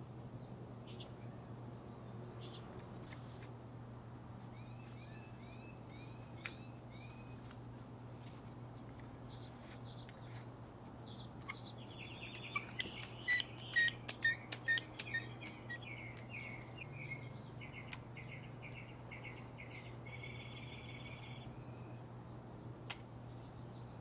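Backyard songbirds chirping and calling over a low steady hum, with a run of repeated chirps early on and a busy burst of loud chattering calls and sharp clicks about halfway through, then evenly repeated notes.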